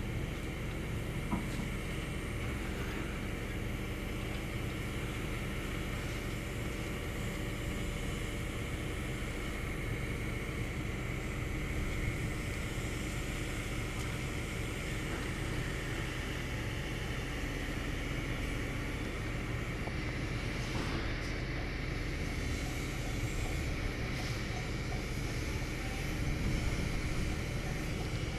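Hydraulic excavator's diesel engine running steadily, a low even drone with a few faint clicks.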